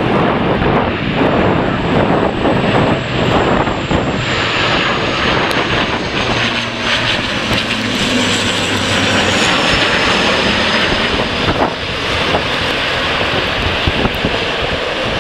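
Airliner passing on its landing approach, the engines' high whine slowly falling in pitch as it goes by, over strong wind noise on the microphone.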